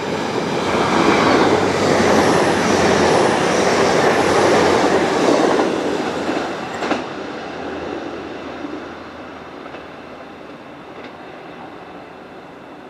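TransPennine Express Class 802 train passing through a station at speed: a rush of wheel and rail noise that builds, stays loud for several seconds, then fades away as the train recedes. There is a single sharp click about seven seconds in.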